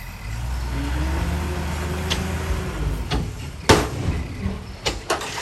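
Diesel engine of heavy earthmoving machinery running with a steady low rumble, then a loud sharp metallic clank about 3.7 s in and two lighter knocks near the end.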